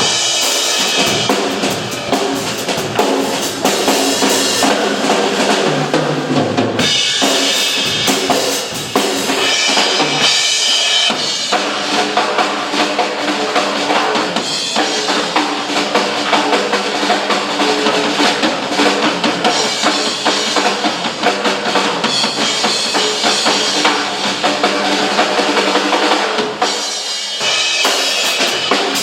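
Live drum duet: two drum kits played together, dense kick and snare playing that keeps going with only brief breaks.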